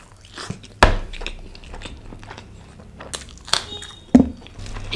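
A person chewing a mouthful of black-pepper butter naan with mutton gravy close to the microphone, with a few sharp mouth clicks, the loudest about a second in and just after four seconds.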